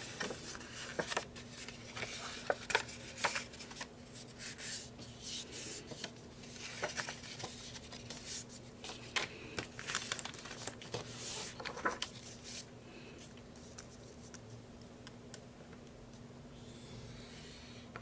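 Sheets of printed paper being handled: short rustles, crinkles and light taps as the pages are shifted, lined up and creased, settling to quiet after about twelve seconds.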